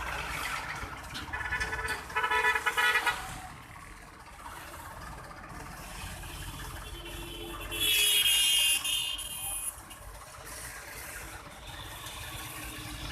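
Vehicle horn sounding: a run of short toots about a second in, then one longer, louder honk around eight seconds in, with traffic noise between.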